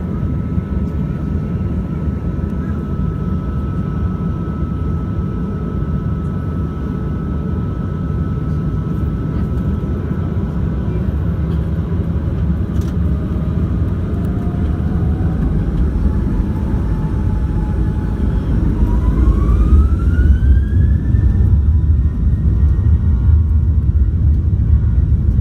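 Boeing 737-900ER's CFM56-7B jet engines heard from inside the cabin: a low rumble with a steady whine, then from about halfway through a whine rising steadily in pitch as the engines spool up to take-off thrust, the rumble growing louder toward the end.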